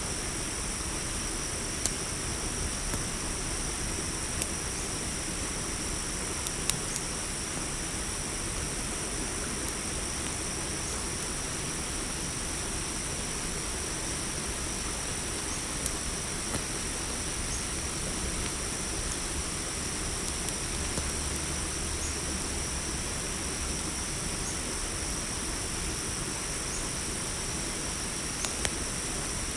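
Crickets chirring in a steady high-pitched chorus over a campfire's low hiss, with a few sharp crackles and pops from the burning wood scattered through.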